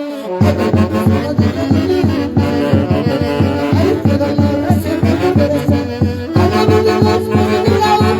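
Orquesta playing live music: horn lines over a steady, pulsing bass beat, starting again after a brief break at the very beginning.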